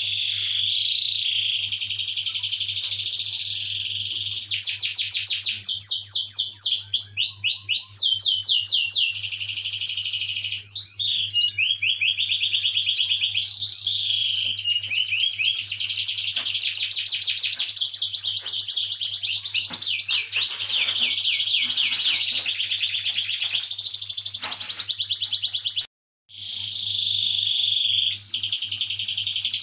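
Domestic canary singing a long, continuous song of rapid trills and rolls, broken by a short silent gap near the end.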